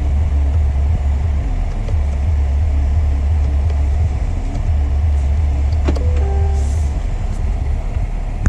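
Chevrolet Tahoe SUV idling, heard from inside the cabin as a steady low rumble. About six seconds in there is a click followed by a few short electronic tones.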